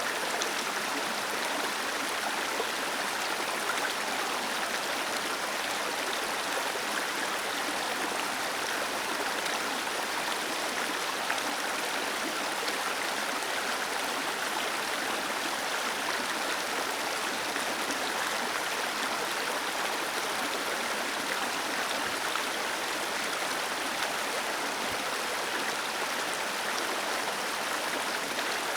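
Small waterfall cascading into a stream, a steady even rush of falling and splashing water.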